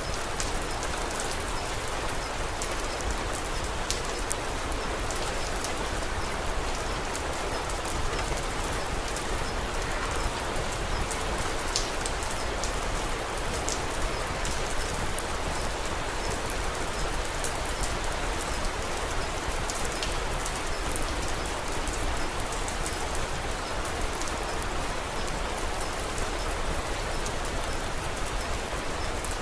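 Steady rain falling: an even hiss with many scattered sharp ticks of drops.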